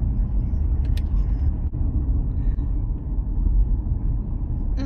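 Car on the move: a steady low rumble of engine and road noise, with a brief click about a second in.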